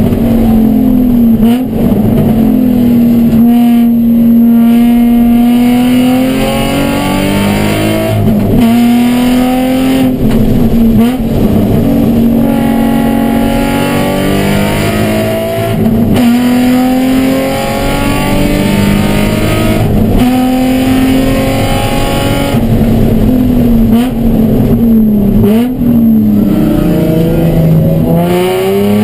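Nissan 350Z race car's 3.5-litre V6, heard from inside the cabin, pulling hard on track. Its pitch climbs through each gear and drops back at each shift, with steady stretches and quick dips between. The driver short-shifts because an ECU fault leaves the engine down on power.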